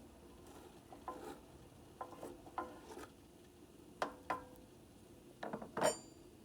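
Sharp clinks and knocks on a small vessel, some with a brief ring, coming in little clusters every second or so, the loudest near the end.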